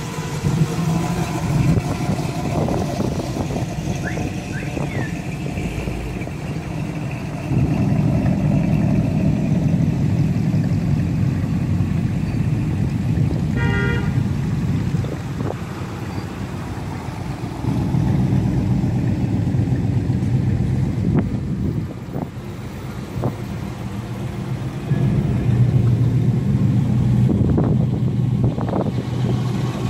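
Classic cars and old pickups driving slowly past one after another, their engines running at low speed and swelling and fading as each goes by. A short car-horn toot comes about halfway through.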